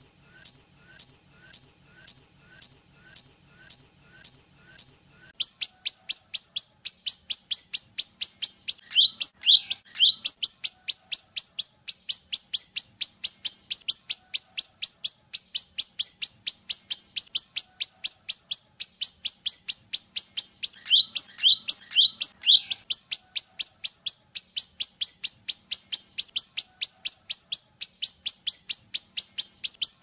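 Rio-rio bird song: a series of high, thin whistled notes, about two falling notes a second at first, then a fast, even run of about four notes a second for the rest. A brief lower-pitched phrase breaks in twice.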